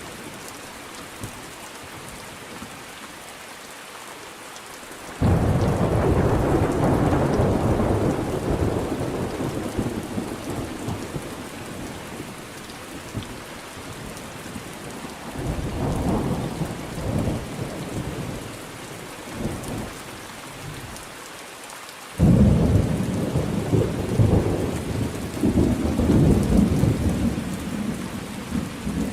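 Steady rain falling during a thunderstorm. A clap of thunder breaks in suddenly about five seconds in and rumbles on for several seconds, a weaker rumble follows in the middle, and a second sudden clap comes near the end, rumbling to the close.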